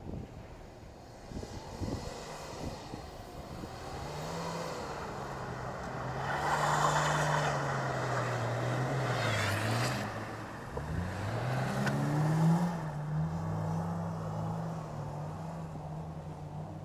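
BMW E34 Touring's engine revving up and down as the car drifts on snow, with a rushing noise at its loudest in the middle. The revs drop about ten seconds in, then climb again. A few thumps near the start.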